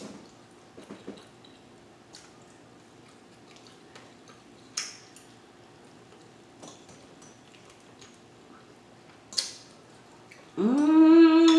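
Quiet eating: a few scattered light clicks and mouth sounds of a fork on a plate and chewing. About a second before the end, a loud hummed "mm-hmm" of enjoyment.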